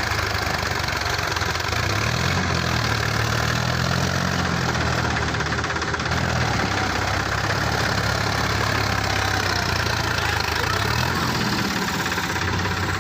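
Tractor diesel engine running, revving up twice, about two seconds in and again near the end, then settling back.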